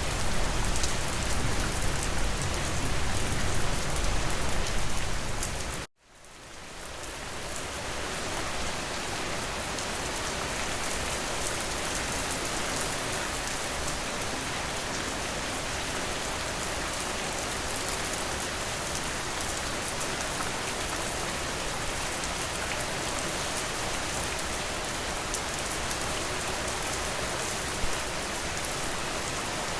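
Steady rain falling on a surface. About six seconds in, the sound cuts out completely, then fades back up to the same even rain, now with less low rumble.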